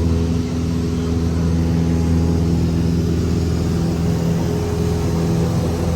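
Cessna 172's piston engine and propeller droning at a steady pitch.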